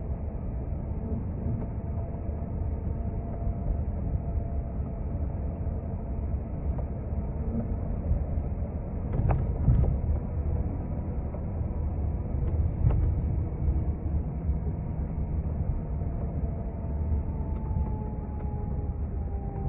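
Steady engine and road drone heard inside a moving TTC city bus, with a few sharp knocks and rattles about nine to ten seconds in and again near thirteen seconds. A faint whine falls in pitch near the end.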